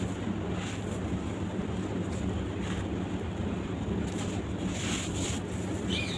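Soft sand-cement blocks crumbling in water: a steady wash of noise with faint, scattered crunches.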